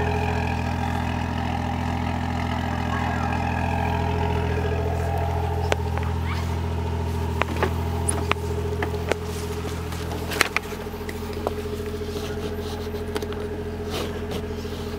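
Toyota 1JZ-GTE VVT-i turbocharged straight-six idling steadily, its tone easing slightly about ten seconds in, with scattered sharp clicks over the second half.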